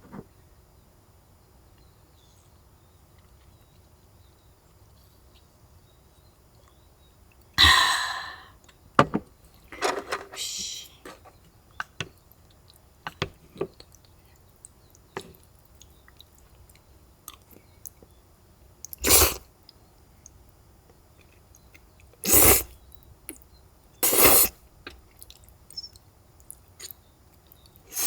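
Quiet background in a small space, broken by a handful of short, sharp noises, the first of them, about seven seconds in, like a sneeze, with small clicks in between.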